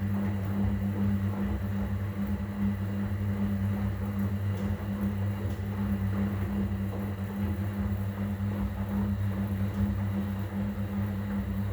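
Arielli AWM-7128N washing machine running through its softener rinse: a steady, low hum with a noisy wash over it.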